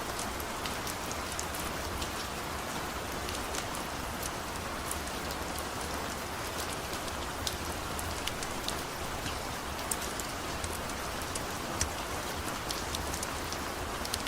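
Steady rain falling, with scattered sharp crackles and snaps from a wood-burning fire over it and a low steady rumble underneath.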